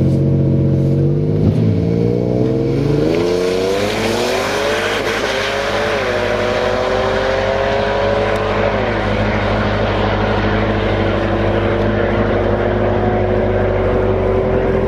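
Turbocharged 2007 Ford Mustang's 4.0-litre V6 accelerating hard. Its engine note climbs quickly, drops at upshifts about six and nine seconds in, then rises slowly again.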